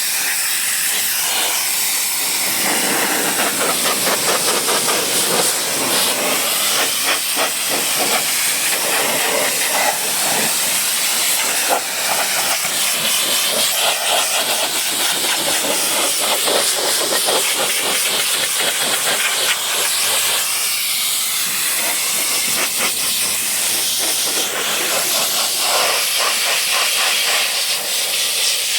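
High-pressure washer jet spraying water onto a dirty truck: a loud, steady hiss whose tone keeps shifting.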